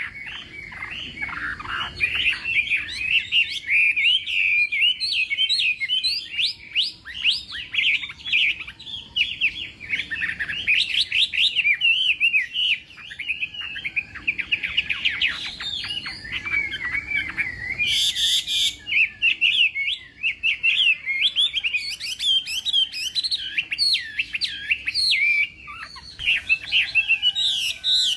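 Chinese hwamei singing a long, nearly unbroken run of quick, varied whistled phrases sweeping up and down in pitch, with one brief rasping note about two-thirds of the way through.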